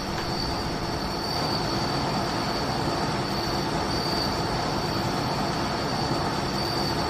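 Steady rushing background noise with a thin, constant high-pitched tone running through it.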